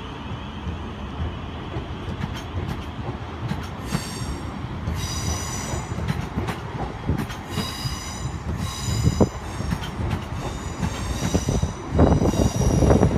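Passenger train moving through the station, its wheels squealing on the rails in repeated high-pitched squeals over a rumble, with scattered clicks; louder near the end.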